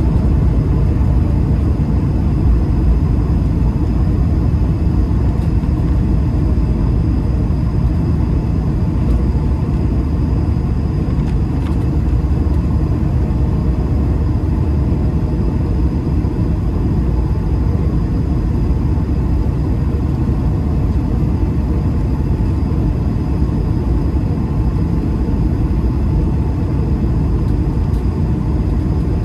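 Steady rumble inside the cabin of an Airbus A220-300, from its Pratt & Whitney geared turbofan engines and the airflow, with a few faint steady engine tones above it. The sound keeps the same level throughout.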